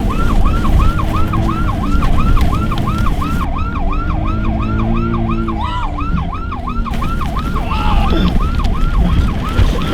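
Police-style yelp siren sweeping up and down about three times a second, over the low rumble of an engine.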